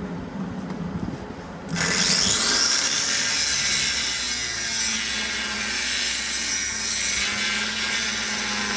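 Angle grinder switching on about two seconds in and grinding steadily into steel, grinding out cracks in a scraper's worn apron edge. An engine hums underneath.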